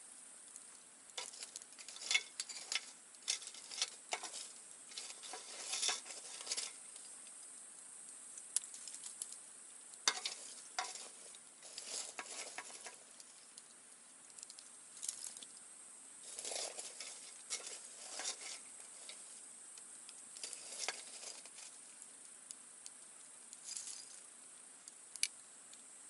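Wood campfire crackling, with irregular clusters of sharp snaps and pops and a few short hissing spells, over a steady high-pitched background hiss.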